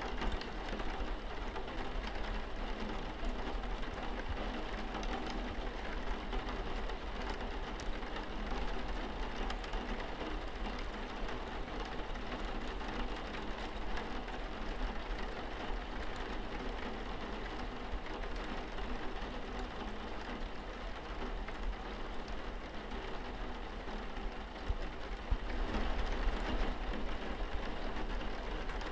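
Steady rain falling on window glass: a dense, even hiss of drops with fine ticks running through it, growing a little louder near the end.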